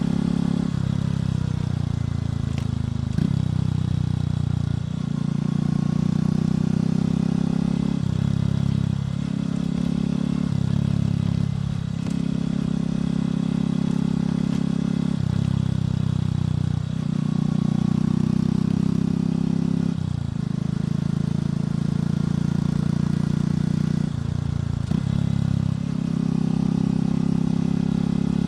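Motorcycle engine and exhaust running under way. The engine note shifts in steps every few seconds as the throttle opens and closes through gear changes, with no break in the sound.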